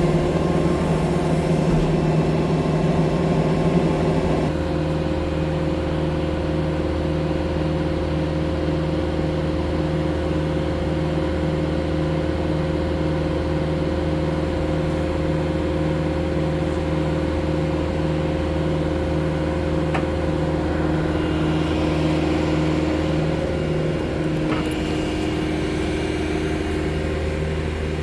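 A vehicle engine running steadily at an even pitch, easing slightly about four and a half seconds in.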